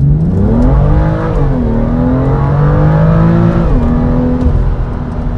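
BMW M2's turbocharged 3.0-litre straight-six under full-throttle acceleration in Sport Plus, heard from inside the cabin. The engine note rises and drops sharply with an upshift about a second in, climbs again, and drops with a second upshift just under four seconds in, then settles lower near the end.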